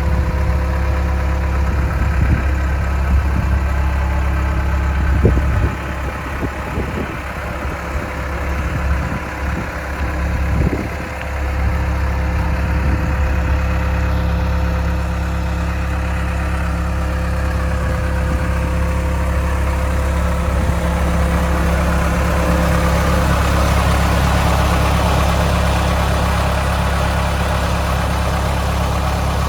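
CASE 445 skid steer's diesel engine running steadily. Its note dips and wavers for a few seconds about a quarter of the way in, then settles again.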